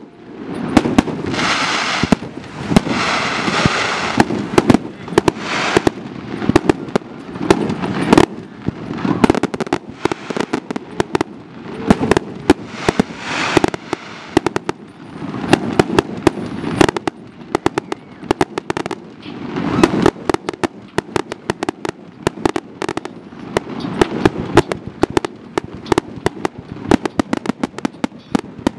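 Fireworks display: a dense, rapid run of aerial shell bursts, several bangs a second, with stretches of crackling between them, the longest in the first few seconds.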